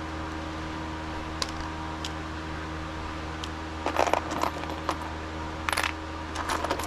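Small metal parts or tools clinking and rattling against each other in a few short bunches, over a steady low hum.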